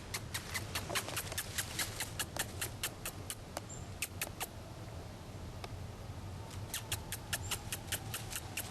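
Rapid, irregular mouth clicks and kissing squeaks made by a person to call a squirrel closer, several a second, thinning out for a moment near the middle.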